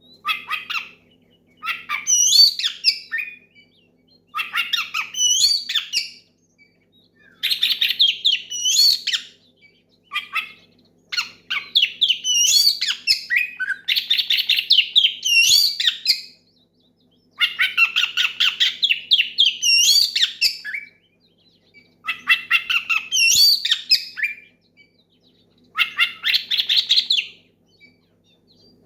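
Oriental magpie-robin (kacer) singing loudly in phrases of fast, rapidly repeated whistled and scratchy notes. Each phrase lasts one to three seconds, with short pauses between. It is a full challenge song that calls out rivals.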